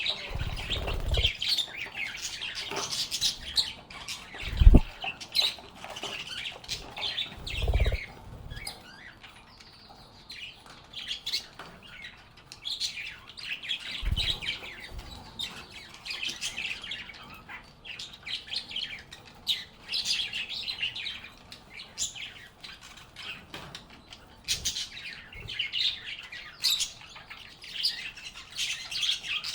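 Lovebirds chirping and chattering in quick clusters of short, shrill calls, easing off for a few seconds about a third of the way in. A few dull thumps sound among the calls, the loudest about five seconds in.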